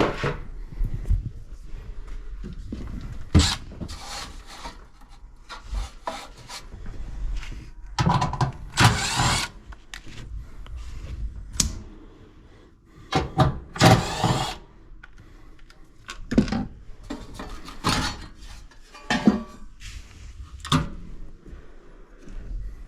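Tools and hardware being handled: scattered knocks and clicks, with two longer scraping rubs, one about a third of the way in and one past the middle.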